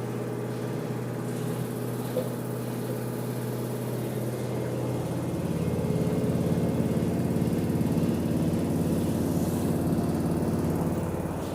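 LG washer-dryer in its spin cycle, running with a steady mechanical drone that grows louder about five seconds in as the drum speeds up. This is the spin noise that was traced to a loose pressure-switch hose.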